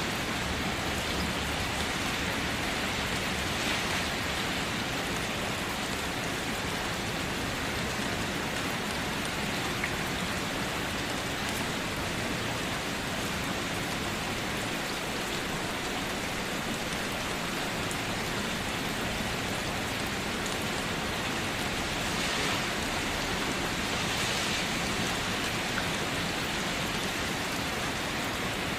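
Steady rain falling, a dense even hiss of drops with brief slightly heavier gusts a few times.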